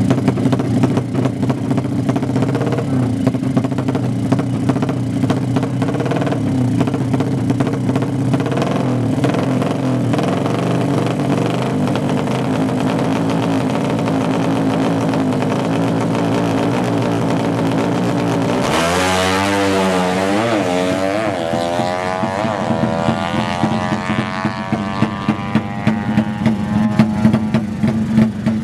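200cc four-stroke drag-racing underbone motorcycle engine running at a steady pitch. About two-thirds of the way in, the note changes suddenly and the engine is revved hard, its pitch climbing steadily as the bike accelerates.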